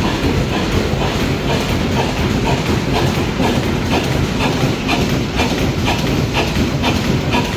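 Steam engine working, with a steady stream of rhythmic exhaust beats about three a second over a hissing, rumbling background.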